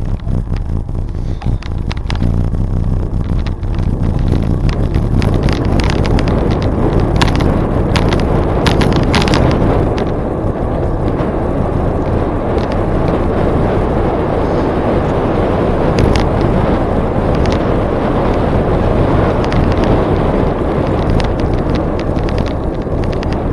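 Wind rushing over the microphone and bicycle tyres rolling along the trail in a steady rumble, with scattered clicks and ticks.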